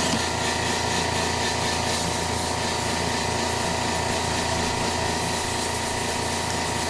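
Power drill running steadily with a step drill bit, boring out the centre of a rubber plug with a continuous rasping, grinding noise.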